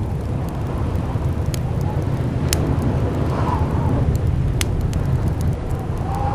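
Blizzard wind: a steady deep rumble with a wavering whistle that swells around the middle and again near the end, over scattered sharp crackling pops.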